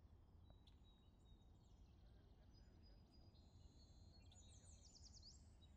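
Near silence: a faint low hum, with faint high-pitched chirps and short whistles in the second half.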